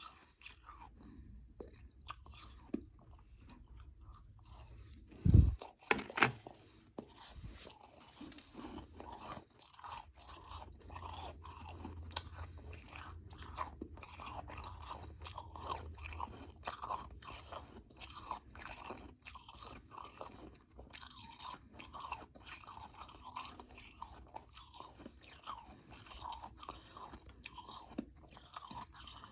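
Close-up chewing of powdery freezer frost and ice chunks, a dense run of small crunches. A loud low thump and a sharp crunch about five to six seconds in.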